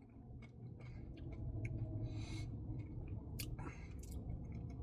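Eating sounds at close range: scattered small mouth clicks and chewing of ice cream, over a low steady hum.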